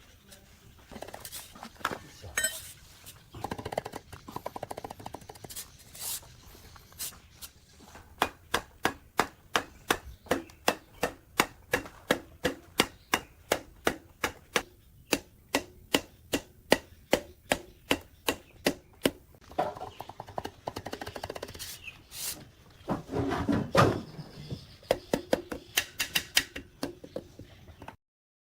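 Rhythmic knocking from repeated strikes, about two to three a second for around twelve seconds, with a few louder scraping bursts near the end.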